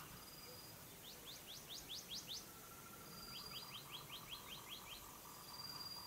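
A bird singing: a thin, high held whistle followed by a fast run of seven to nine short rising notes, given twice, with a third whistle near the end. A faint, lower tone pulses about five times a second beneath the second phrase.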